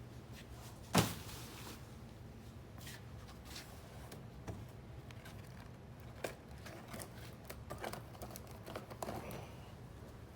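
Gear being handled and shifted around: one sharp knock about a second in, then scattered light clicks and rustling.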